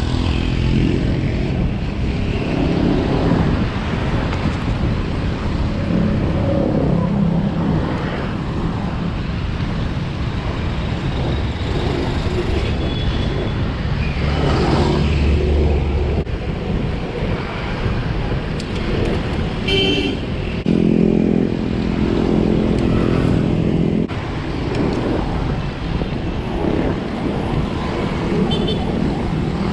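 Road traffic heard from a moving bike: motor vehicles passing, with a horn sounding briefly about twenty seconds in. Wind buffets the microphone throughout as a steady low rumble.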